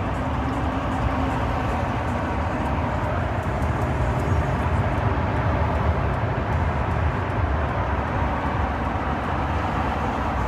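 Steady rumble of a vehicle on the move, engine and road noise with a heavy low end and no pauses.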